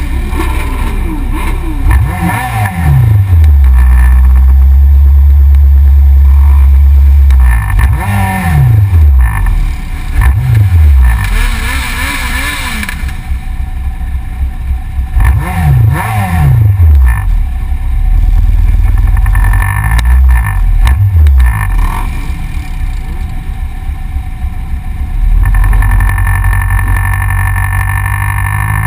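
Yamaha XJR motorcycle's inline-four engine running loud, revving up through the gears again and again, each rise in pitch cut short by a gear change. There is a stretch of steady low rumble partway through.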